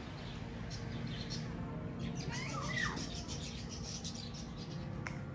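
Birds chirping in a garden, with a short run of gliding, whistled calls a little over two seconds in.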